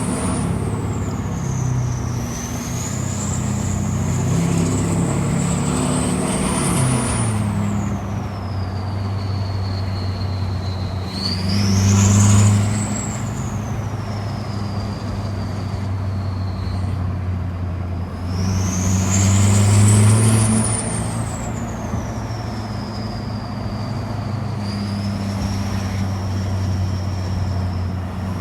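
Ford Power Stroke turbodiesel revved up and down several times over a low engine drone, its turbo whistle climbing in pitch as the revs rise and sliding back down as they drop. The two biggest climbs, about a third and two thirds of the way through, are also the loudest.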